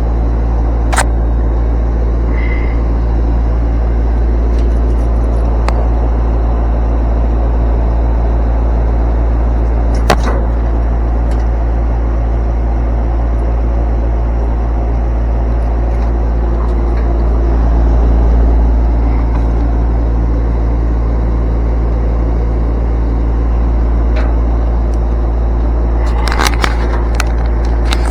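Steady, loud low mechanical drone with a constant hum, a few sharp clicks, and a slight swell about two-thirds of the way through.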